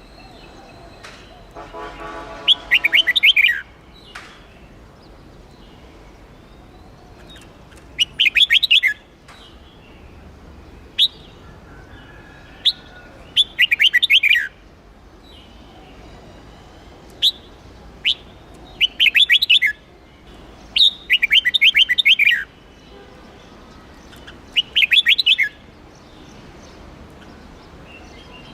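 Red-whiskered bulbul singing: short bursts of quick, high notes every few seconds, with single sharp chirps in between.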